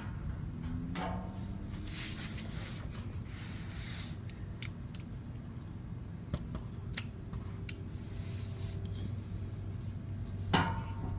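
Scattered light clicks and knocks of tools and parts being handled, with one louder metallic clank that rings briefly near the end, over a steady low hum.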